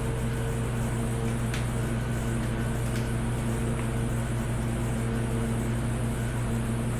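Steady electrical hum of garage equipment, like a fan or heater running, with a few faint clicks.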